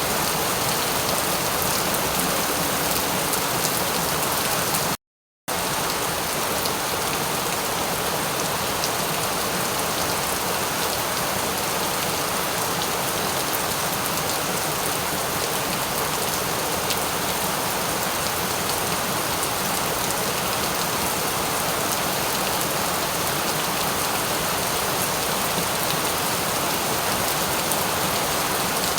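Steady heavy rain falling on surfaces, an even hiss of drops. About five seconds in it cuts out completely for half a second, then resumes unchanged.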